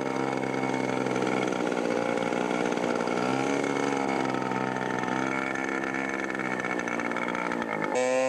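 Radio-controlled scale model airplane's glow engine running in flight, its pitch dipping and rising as the plane manoeuvres. Near the end the sound cuts abruptly to a steadier hum.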